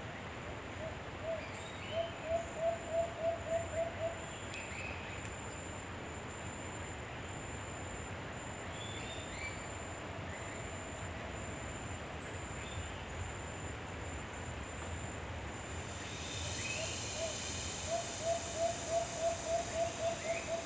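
Wild forest ambience. Over a steady insect hum, an animal gives two runs of hollow hooting notes at about four a second, the first around two seconds in and the second near the end. Short high bird chirps are scattered throughout. About three-quarters of the way through, a high insect buzz grows louder.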